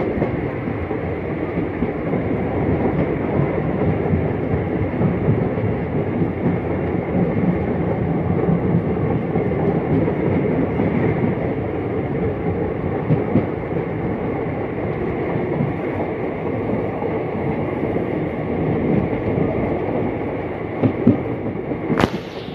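Indian Railways passenger train running at speed, heard at an open carriage window: a steady rumble of wheels on the track with occasional clacks at rail joints. A brief harsh noise comes near the end.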